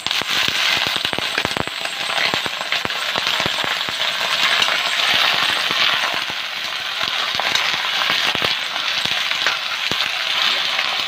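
Raw chicken pieces frying in hot oil in a wok: a loud, dense crackling sizzle that starts suddenly as the meat goes in and keeps up steadily.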